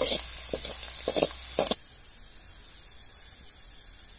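Cashew nuts and cardamom sizzling in hot oil in a metal kadai, with sharp clinks and scrapes as a steel ladle stirs them against the pan. The sound cuts off abruptly a little under two seconds in, leaving a fainter steady hiss.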